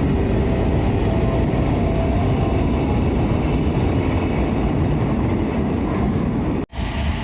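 Container freight train rolling past, a steady rumble of steel wheels on rail with a faint squealing tone. The sound breaks off abruptly for an instant near the end.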